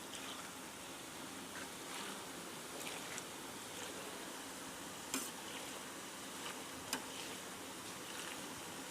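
Food frying in a snack fryer's hot oil: a steady sizzle with scattered crackles, and two sharp clicks about five and seven seconds in.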